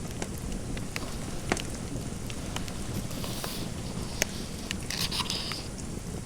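Fireplace fire crackling, with scattered sharp pops over a steady background hiss. Two short runs of pen-on-paper writing scratches come about halfway through and again near the end.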